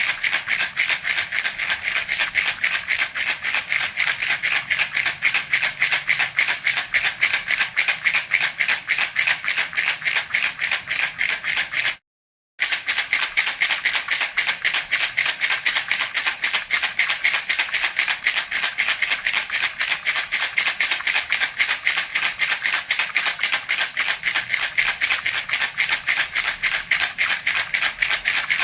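Baby's rattle (jhunjhuna) shaken steadily in a quick, even rhythm of bright rattling strokes, breaking off for about half a second around twelve seconds in.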